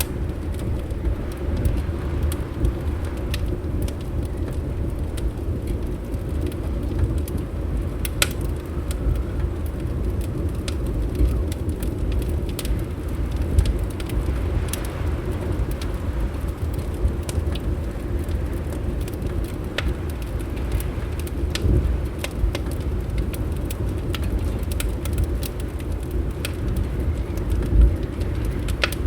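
Wood fire crackling in a fireplace: scattered sharp pops and crackles, irregular in timing, over a steady low rumble like wind.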